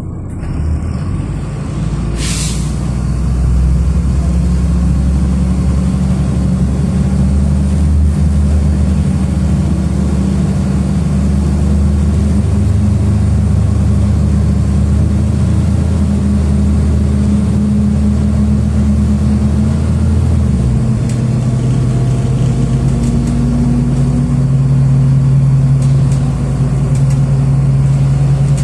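City bus engine running, heard from inside the cabin, building up over the first few seconds as the bus moves off, with a short hiss of air about two seconds in. About twenty seconds in the engine note changes abruptly to a higher, steadier drone.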